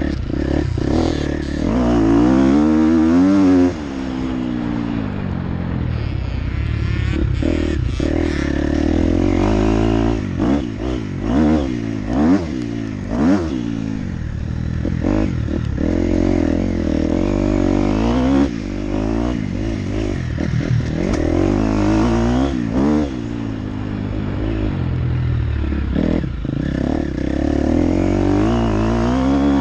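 Motocross bike engine being ridden hard, its pitch climbing and dropping over and over as the throttle is opened and shut, with clattering knocks from the bike over rough ground.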